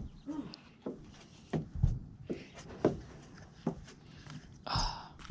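Irregular footsteps and knocks, about one or two a second, with a short scraping noise near the end.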